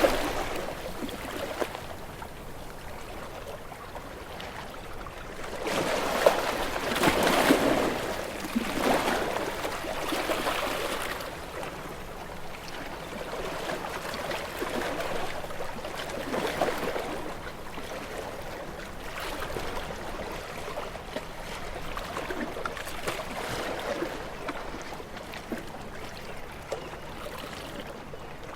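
Ocean waves washing ashore, each wave swelling into a hiss and draining away, one every few seconds, with the biggest about a quarter of the way in.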